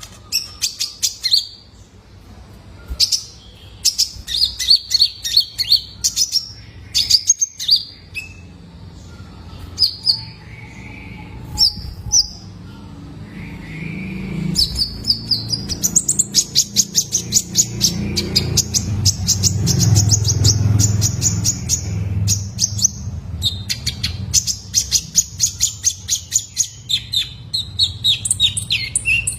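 Young male olive-backed sunbird singing: runs of fast, high twittering chirps broken by short pauses. A low background rumble grows louder through the middle and fades again.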